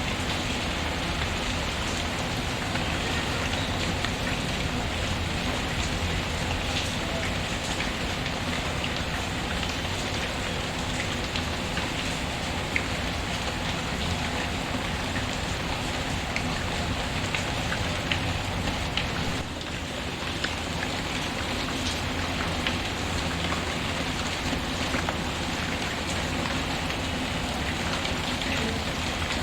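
Steady rain and a crackling wood fire: an even hiss of rainfall with scattered sharp crackles.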